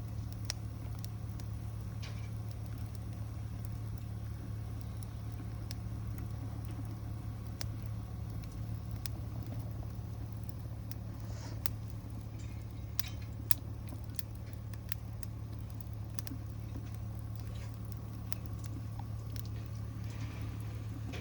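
Wood burning in a home-made rocket stove, with scattered sharp crackles and pops over a steady low rumble.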